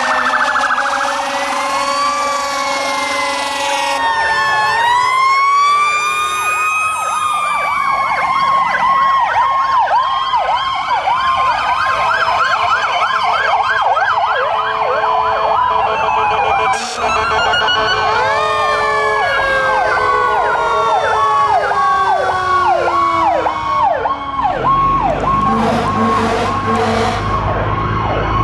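Several fire truck sirens sounding at once, some wailing up and down slowly while another yelps rapidly. Past the middle, one siren's pitch falls slowly for several seconds.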